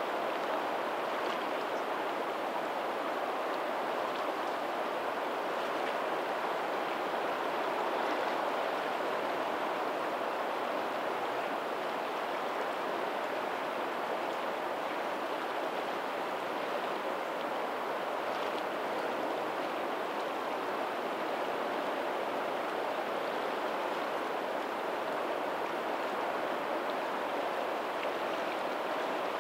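Steady rush of water from a lagoon's tidal outflow running into the sea, blended with faint distant ocean surf.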